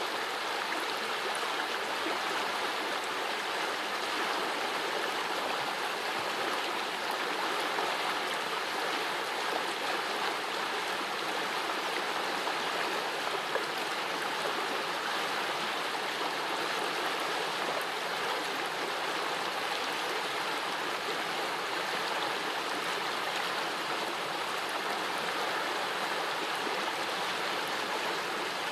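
Small forest brook flowing over stones: a steady babbling rush of water.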